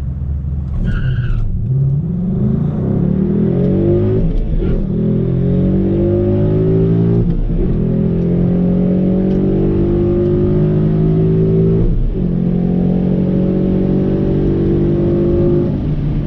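A 2011 Ford Mustang GT's V8 through an MBRP 3-inch cat-back exhaust with H-pipe, accelerating hard down the drag strip at full throttle. A short tyre chirp comes at the launch. The engine pitch climbs and drops back at each of three upshifts, and the throttle lifts near the end.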